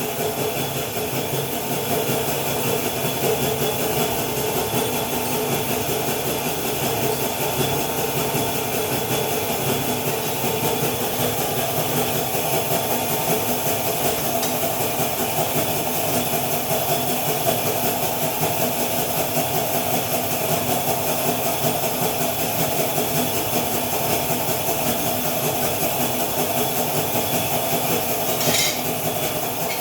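A machine running steadily, a constant hum with hiss, with one short sharp sound near the end.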